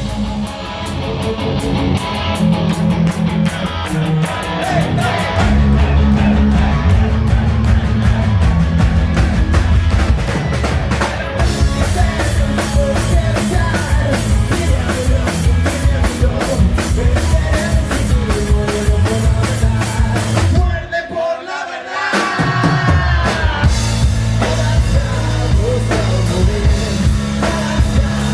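Hard rock band playing live: drum kit, electric guitar and bass, with singing. The band drops out briefly about three-quarters of the way through, then comes back in.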